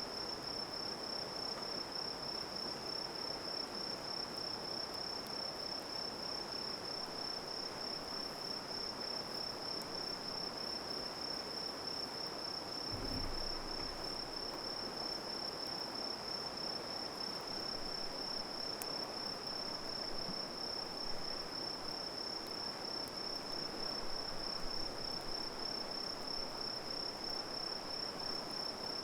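Crickets chirring in a continuous high-pitched trill, over a steady even hiss. A brief low rumble comes about halfway through.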